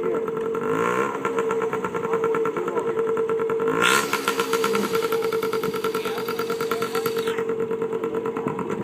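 Dirt bike engine running with a steady drone, revving up briefly about a second in and again about four seconds in.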